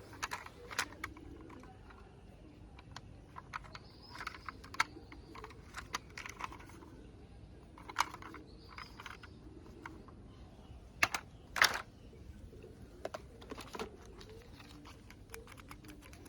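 Irregular clicks and taps of small hard objects being handled, with a few louder knocks about eleven seconds in.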